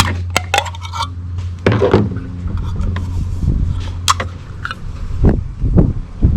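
Several sharp clicks and knocks of a can of engine oil treatment being handled and emptied into the oil filler funnel, over a steady low hum.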